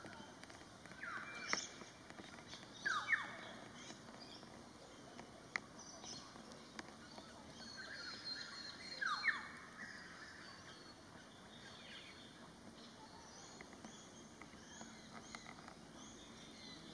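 Wild birds calling in the trees: three loud calls that sweep downward in pitch, the first two close together near the start and one more about nine seconds in, with softer, higher chirps scattered between them over a faint outdoor background.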